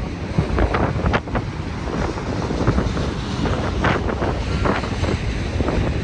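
Strong, gusty Santa Ana wind buffeting the microphone in uneven surges.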